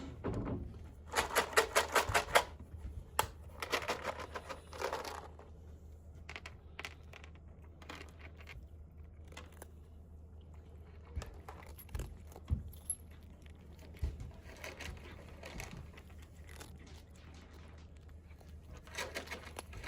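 Bursts of crinkling and rustling from a bag of cat food being handled and opened, a few times over, with scattered light clicks and knocks in between.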